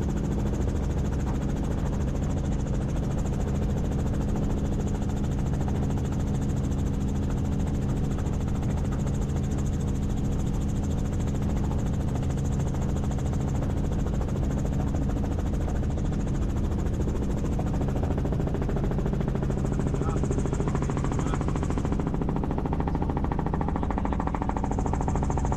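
Helicopter in flight: a steady rotor chop and engine drone. The tone shifts slightly about twenty seconds in.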